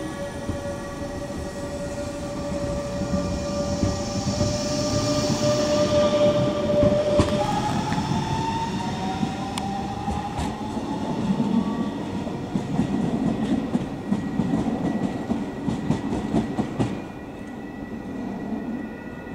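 A train running, heard from inside a passenger car: a steady rumble with a whine that rises in pitch from about eight seconds in, and a run of clicks from the wheels crossing rail joints later on.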